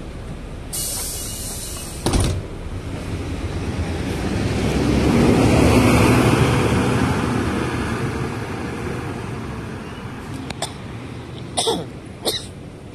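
City bus ride heard from on board. A hiss of air comes early, then a knock, then the engine and road noise swell up and fade away again, with a few sharp clicks and knocks near the end.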